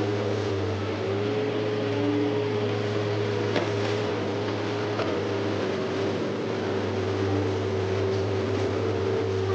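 Komatsu PC130F excavator's diesel engine running steadily under work, with a steady hydraulic whine over the engine hum and a couple of short sharp knocks partway through.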